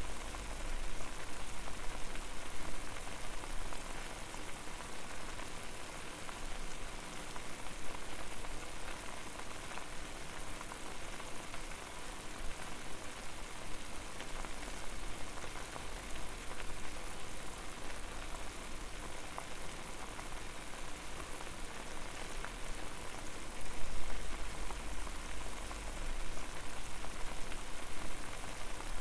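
Water boiling over a fire: a steady, dense bubbling and crackling. A low rumble swells briefly near the start and again about 24 seconds in.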